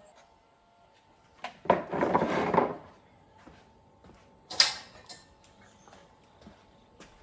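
Small objects being handled: scattered clicks and knocks, a louder noisy burst lasting about a second starting nearly two seconds in, and a sharp click with a brief hiss a little after the middle.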